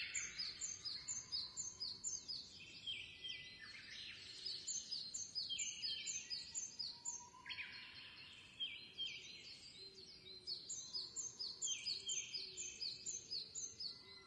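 Small birds chirping: a fast run of short, high chirps, several a second, with one bird's phrases overlapping another's.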